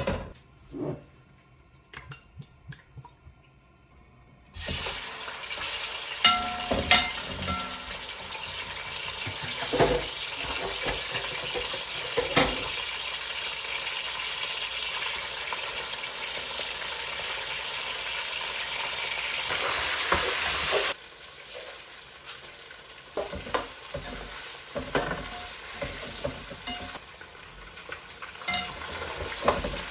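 Food frying in a hot pan. A sharp knock and a few light clicks come first, then a loud sizzle starts suddenly a few seconds in, with a spatula knocking against the pan as it is stirred. Later it drops abruptly to a quieter sizzle, with the occasional knock.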